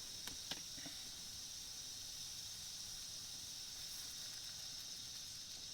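Steady faint hiss, with a few soft clicks in the first second.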